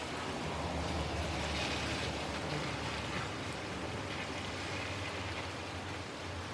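Heavy rain pouring down steadily, with a low rumble that builds about half a second in and eases off near the end.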